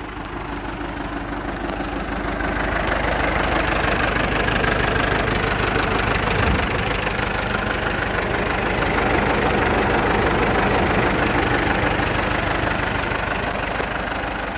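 Ford diesel tractor engine running, growing louder over the first few seconds and then holding steady.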